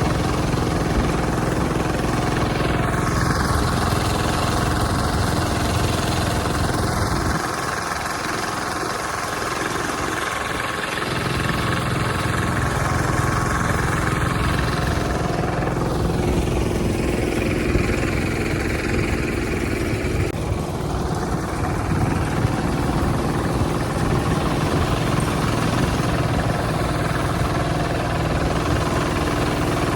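Hand tractor's engine running steadily, its low rumble easing for a few seconds about a third of the way in.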